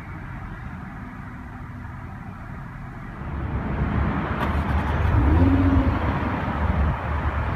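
A car's engine and road noise, a low rumble that grows louder from about three seconds in.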